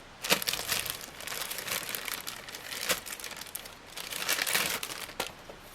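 Packaging crinkling and rustling as ceiling-fan blade brackets are unwrapped by hand, with a few sharper crackles.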